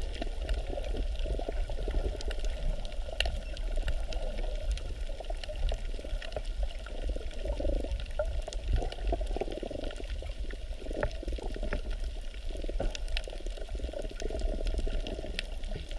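Water bubbling and gurgling steadily, with scattered small clicks throughout.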